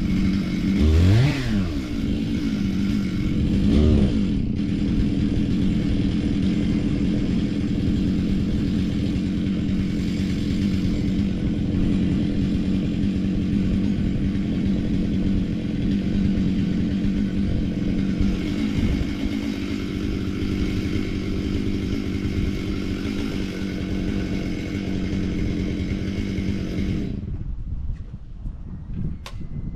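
Excavator's diesel engine running steadily, with two brief swoops in pitch about one and four seconds in. The sound cuts off suddenly near the end.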